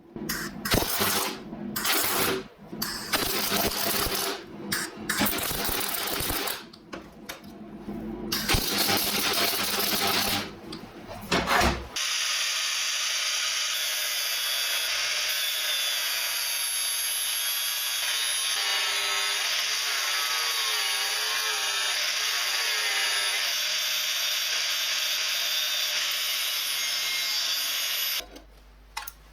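Metal parts clanking and knocking irregularly for about twelve seconds. Then a 9-inch (230 mm) angle grinder runs steadily with a high whine for about sixteen seconds and stops abruptly near the end.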